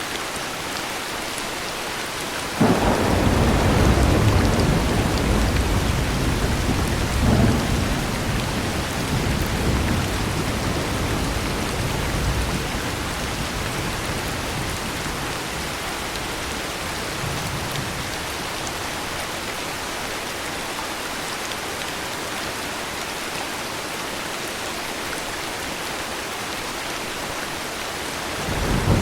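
Steady heavy rain with a sudden thunderclap about two and a half seconds in. Its low rumble swells again a few seconds later and fades over about ten seconds, and another rumble of thunder starts near the end.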